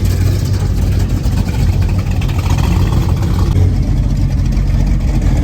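Car engine running steadily with a low rumble, its pitch rising a little near the end.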